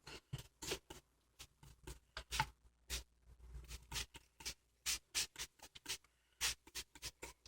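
Hand-pump spray bottle misting water onto a cockatiel in a quick, uneven series of short, faint squirts.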